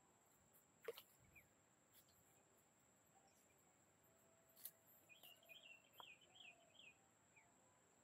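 Faint outdoor quiet in which a bird gives a quick run of about eight short chirps a little past halfway, over a faint steady high-pitched whine, with a couple of sharp clicks.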